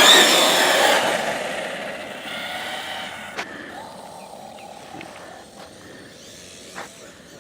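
Arrma Notorious 6S RC truck's brushless motor whining at high speed, its pitch having just climbed as the truck accelerates. The whine is loud at first and dies away over about three seconds as the truck runs off, with a couple of faint knocks later on.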